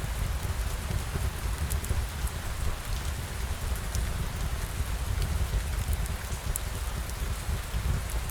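Steady rain falling, with a deep low rumble underneath and scattered small drip ticks.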